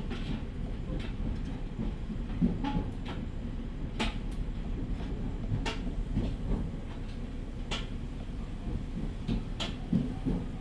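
Inside an E501 series electric train running slowly under a strong-wind speed restriction: a low steady rumble, with a sharp click or knock every second or two at uneven spacing.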